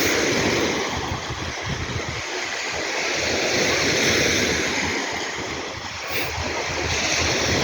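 Sea waves washing onto the shore, the surf swelling to its loudest about halfway through, easing off, then building again. Wind buffets the microphone.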